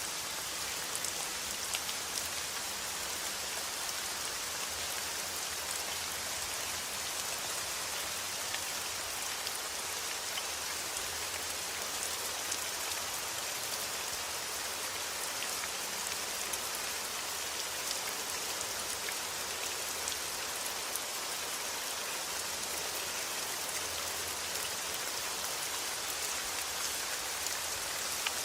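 Steady rain falling: an even hiss peppered with many small drop ticks.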